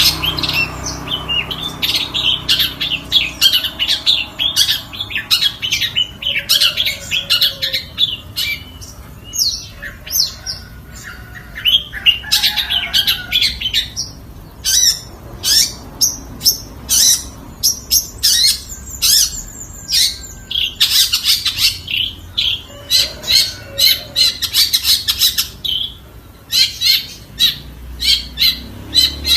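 Long-tailed shrike (cendet) singing: rapid runs of short, sharp chirps and harsh squawky notes with brief pauses between phrases.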